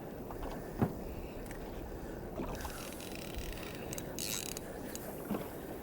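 Steady low rumbling noise of a small fishing boat on the water, with a few faint knocks and a brief hiss about four seconds in.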